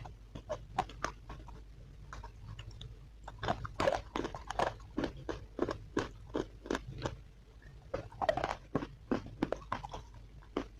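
A person biting and chewing hard, crunchy chalk-like sticks: a fast, irregular run of sharp crunches, several a second.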